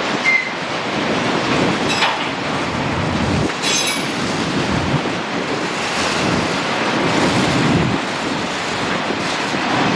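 Freight train cars rolling past on the rails, a steady rumble of wheels with a few short high-pitched wheel squeals in the first half.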